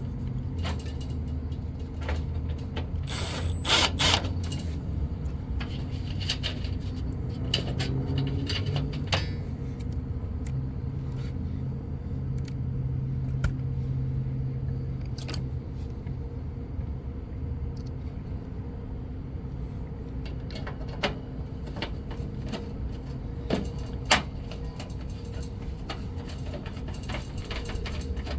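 Sheet-metal clanks, scrapes and knocks as an electric heater kit is worked into a rooftop HVAC unit, with sharper knocks about four seconds in and again near the end. A steady low mechanical hum runs underneath.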